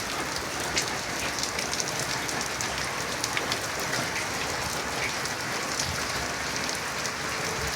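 Steady rain falling, with many small drop impacts pattering on surfaces.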